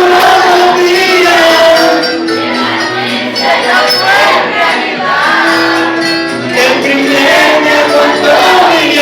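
Live Latin band music playing in a break between the sung verses of a song.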